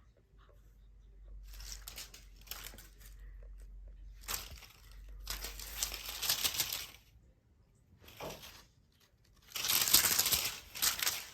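Several bursts of scratchy, crinkling noise, the loudest near the end.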